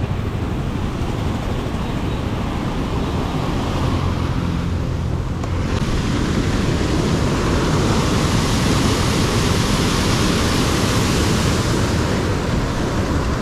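Wind rushing over the microphone of a motorcycle on the move: a steady rushing noise with a low road and engine rumble beneath, turning hissier a little past the middle.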